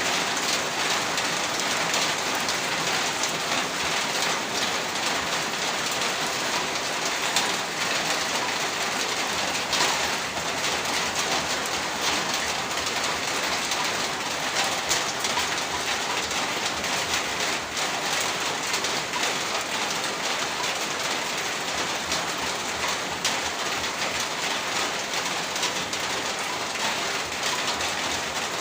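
Heavy rain falling steadily on a rooftop, a dense, even patter of countless drops with no let-up.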